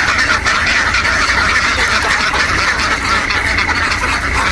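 A large flock of domestic ducks quacking all at once, a dense continuous chatter, with a low steady rumble underneath.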